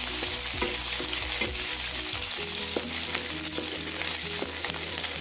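Garlic cloves sizzling as they fry in hot oil in a wok, with a spatula scraping and tapping the pan as they are stirred.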